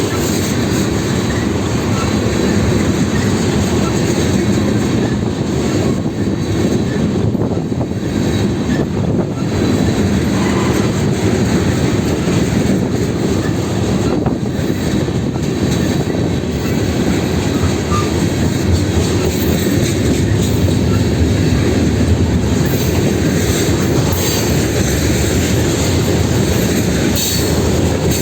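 A train rolling past on the rails: a steady, loud rumble of wheels on track that keeps on without a break.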